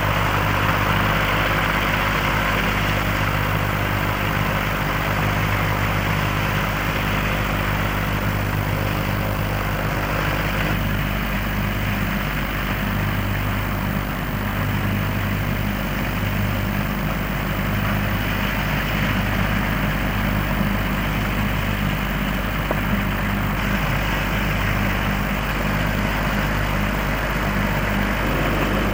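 Massey Ferguson 510 combine harvester running steadily at work harvesting field beans, its diesel engine giving a constant drone under an even mechanical rush.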